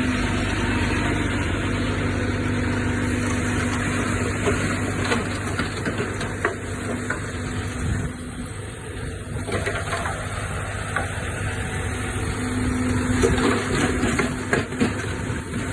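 Diesel engine of heavy earthmoving machinery running steadily, with scattered sharp clanks and knocks. The engine's hum drops back briefly in the middle and rises again near the end.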